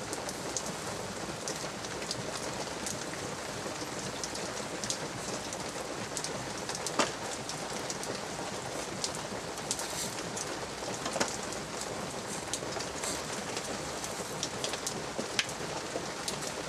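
Steady light rain, with many separate drops ticking close by.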